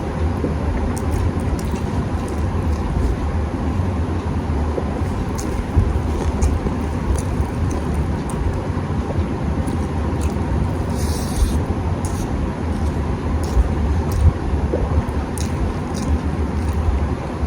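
Steady low rumbling background noise with a faint steady hum, broken by scattered small clicks and a short hiss a little past the middle.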